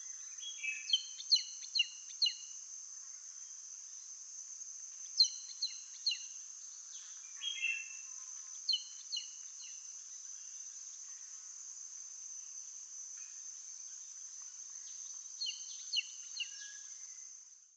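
Forest insects keep up a steady high-pitched buzz. Over it a bird calls in short series of four or five quick chirp-like whistles, first about a second in, then again around five, eight and nine seconds in, and once more near the end.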